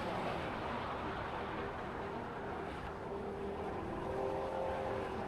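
Steady motorbike engine and street-traffic noise heard while riding, with wind on the microphone; a faint steady tone comes in about four seconds in.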